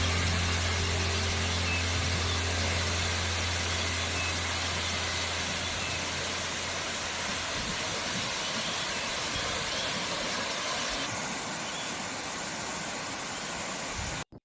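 Steady rushing of water falling at a waterfall, with a low hum underneath that fades away over the first half. The sound breaks off abruptly near the end.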